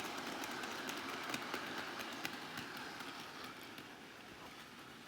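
Model train (a Henry the Green Engine locomotive pulling its cars) rolling along the track, its wheels clicking over the rail joins with a steady rolling hiss. The motor is almost silent. The sound fades over the last couple of seconds as the train moves away.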